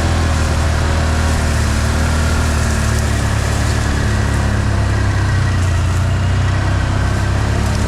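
Off-road vehicle's engine running at a steady speed, a loud, even low hum.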